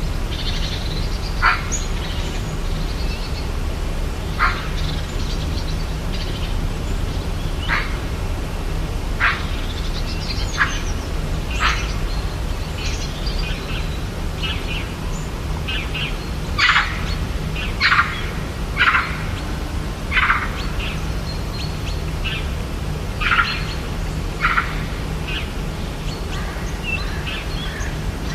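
Rainforest ambience: short bird calls and chirps every second or two, coming thicker around the middle, over a steady low rumble.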